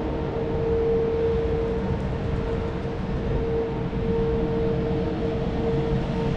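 Steady mechanical hum from a running vehicle or machine: one held, unwavering tone with a fainter higher overtone over a low rumble.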